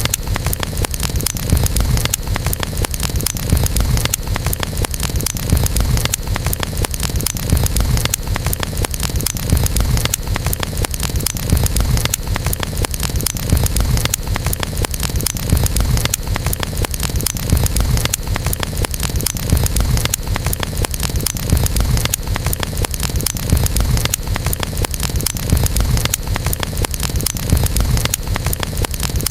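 Wood fire burning steadily, with dense fine crackling over a low rumbling roar.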